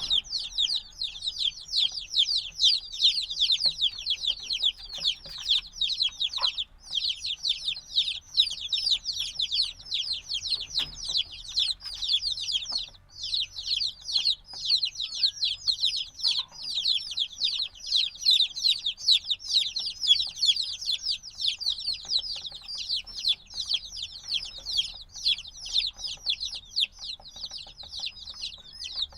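A brood of days-old chicks peeping loudly and without pause, many high, short, downward-sliding peeps overlapping; this continuous loud peeping is typical of chicks wanting the warmth of the hen.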